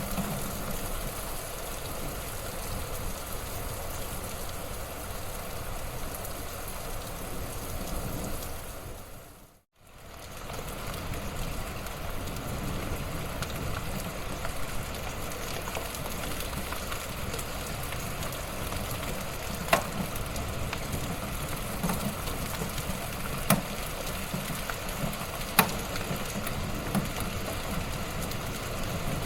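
Wood fire burning in a fireplace: a steady crackle and hiss with three sharper pops in the second half. It fades out briefly to near silence about ten seconds in and comes straight back.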